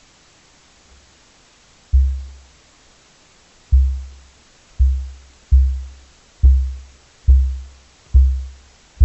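Deep, very low bass-drum booms, about eight of them at uneven spacing from about two seconds in, each fading over about half a second, over a faint hiss.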